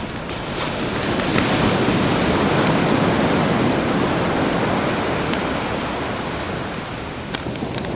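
A sea wave surging in and washing back, swelling over the first couple of seconds and slowly fading, with a campfire crackling in a few sharp pops, several of them near the end.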